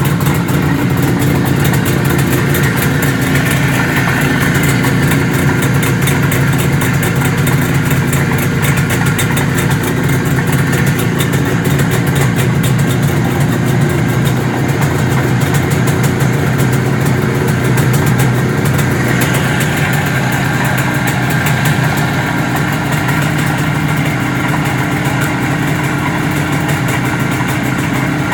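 1973 IZH Jupiter 3 motorcycle's 350cc two-stroke engine running steadily at idle.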